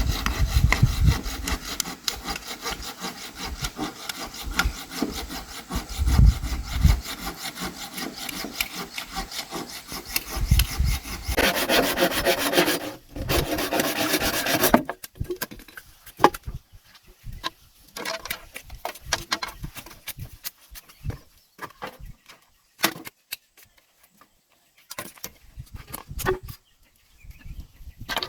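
Hand saw cutting through bamboo in quick, even rhythmic strokes for about fifteen seconds. The sawing then stops and gives way to scattered light knocks and taps.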